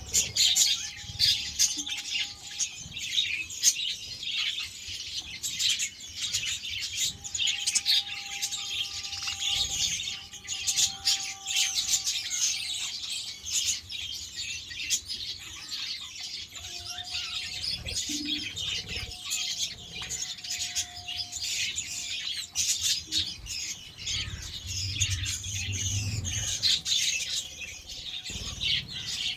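A flock of budgerigars chirping and chattering continuously, many quick overlapping calls.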